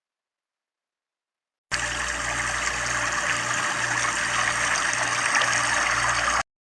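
Steady rush of falling, splashing water, starting and cutting off abruptly.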